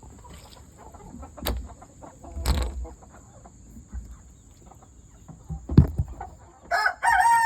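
Chickens clucking faintly in a pen, with a few sharp knocks, the loudest just before the end. Near the end a rooster starts a loud, long crow.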